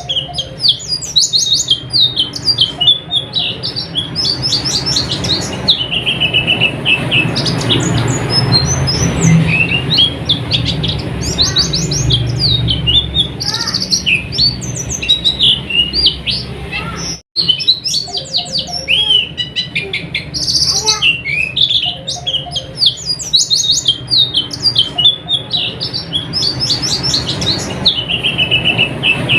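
White-eye (pleci) song: a steady stream of rapid, high twittering chirps and trills over a low background rumble, broken by a momentary silence about two-thirds of the way through.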